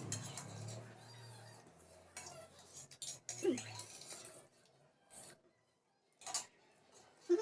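Faint, scattered clinks of cutlery against plates while noodles are eaten: a handful of separate sharp clicks spread out over several seconds, with a low hum fading out about halfway through.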